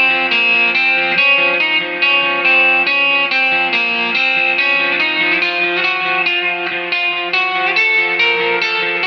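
Electric guitar played through an ART DST 8080 tube preamp and power amp on a clean tone: a steady run of picked single notes and arpeggiated chords, each note ringing clearly.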